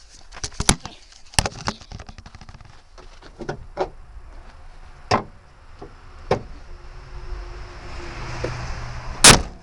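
Hood of a 2000 Ford Escort ZX2 being closed: scattered clicks and knocks as it is handled, then a loud slam near the end as it shuts.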